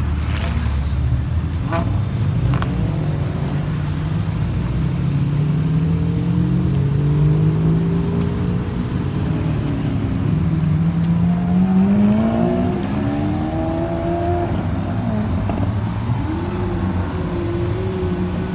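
Several supercar engines, Lamborghini V12s among them, revving and accelerating as the cars pull away one after another. The engine pitch rises and falls with each car, and there are a few sharp cracks near the start.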